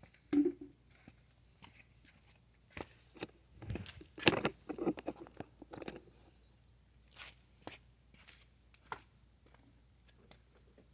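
Scattered knocks and clicks, the loudest a little after four seconds in, with a faint steady high tone from about seven seconds in.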